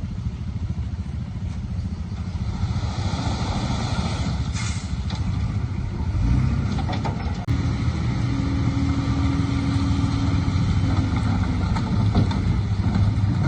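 Heavy diesel engine of earthmoving machinery running with a steady low rumble. About six seconds in it grows louder, and a steady tone holds over it for several seconds.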